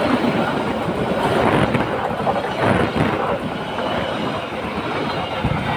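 A train passing close by: a loud, continuous rush of wheel-on-rail noise with irregular knocks.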